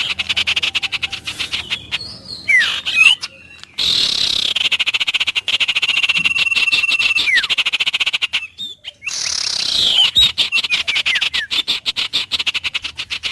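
Wild animal chorus: a dense, fast-pulsing trill with short bird whistles sliding down in pitch and a few held whistle notes. The chorus drops out briefly twice, about a third of the way in and again about two-thirds in.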